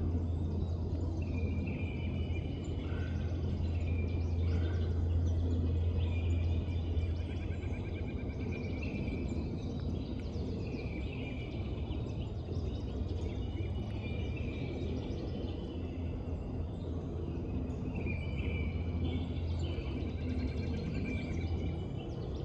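A bird singing short trilled phrases, repeated every few seconds, over a steady low rumble.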